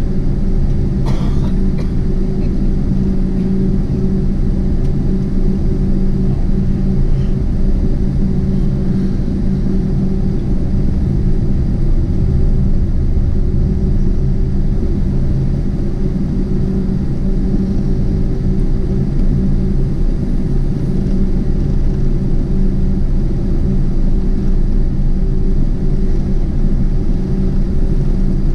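Steady low rumble with a constant hum inside the cabin of a Boeing 747-8 on the ground after landing, with one brief click about a second in.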